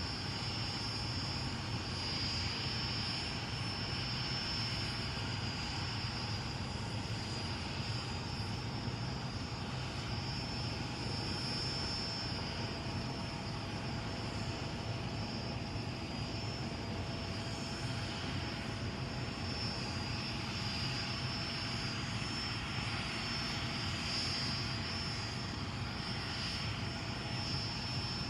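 Bell UH-1 'Huey' helicopter running steadily: the fast, even beat of its two-bladed main rotor over the steady high whine of its turbine, with no change in level.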